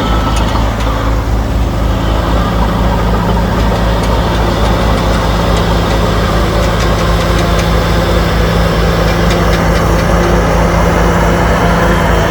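Heavy earthmoving machine's diesel engine running steadily at a constant pitch.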